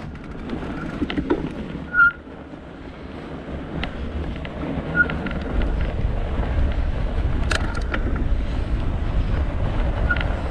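Wind buffeting the microphone on a moving bike, with a low rumble that grows heavier about halfway through. Scattered light clicks and three short high squeaks sound over it.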